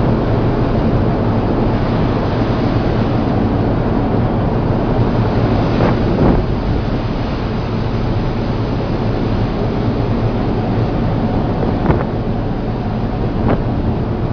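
Rough sea washing and wind buffeting the microphone aboard a ship, over a steady low engine drone. A few short knocks or wave slaps cut through: one about six seconds in and two near the end.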